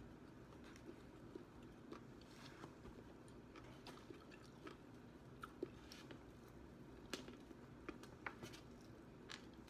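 Faint, close chewing and biting of crispy breaded fried chicken: scattered soft crunches and wet mouth clicks, a few sharper crunches in the second half.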